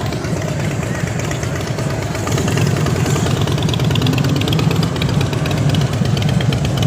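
A car engine idling and running steadily at low speed, a deep even rumble with fine rapid ticking above it.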